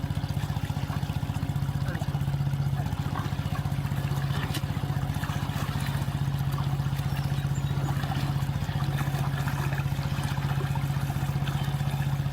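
A small engine running steadily at a constant speed, with an even low hum and rapid regular firing pulses.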